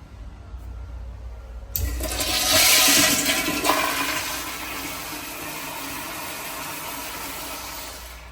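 A toilet in a public restroom flushing: the rush of water starts suddenly about two seconds in, is loudest for the first second or so, then settles into a steadier, quieter rush that stops near the end.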